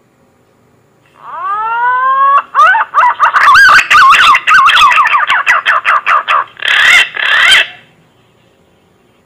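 Green pigeon (punai) call played as a hunting lure. It opens with a rising whistled note, then runs into quick, wavering, warbling whistles with sharp clicks, and ends in two louder whistles.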